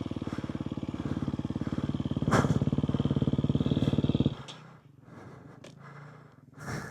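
Dirt bike engine chugging at low revs with even firing pulses while picking through a rock garden, with a sharp knock about two and a half seconds in. The engine cuts off suddenly after about four and a half seconds.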